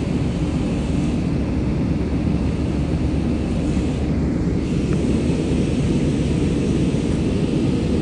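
Airliner cabin noise from the engines and airflow, a steady, loud low rumble heard from inside the passenger cabin during flight.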